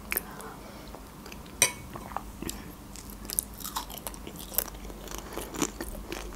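Close-miked chewing and mouth sounds of a person eating a spoonful of lentil soup, with scattered small wet clicks and smacks, the sharpest about a second and a half in.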